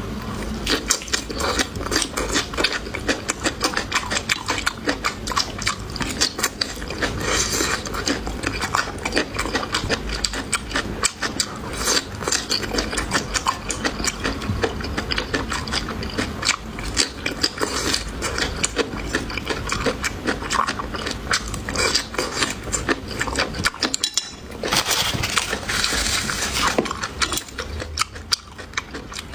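Close-miked eating of pig tail: a steady run of wet chewing and smacking mouth clicks, broken by a short pause near the end.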